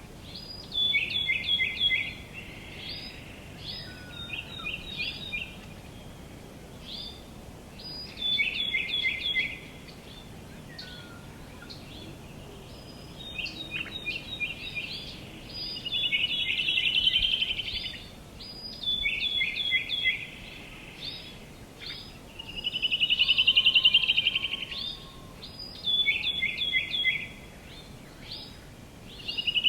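Songbirds singing: short phrases of quick notes stepping down in pitch, repeated every few seconds, with a louder rapid trill twice in the second half and again at the very end. A faint steady outdoor hiss sits beneath.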